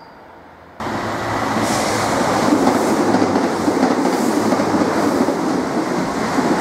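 Chiltern Railways diesel multiple unit passing close by at speed: a loud, steady rush of wheel and rail noise over the hum of the underfloor engines. It starts abruptly about a second in.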